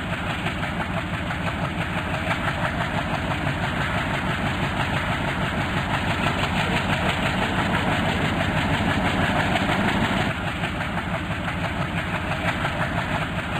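WDP4 diesel locomotive engine running with a steady, rapid throb.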